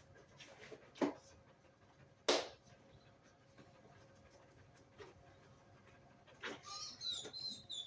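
A large dog panting in a few short, sharp puffs, with a brief high-pitched squeak near the end.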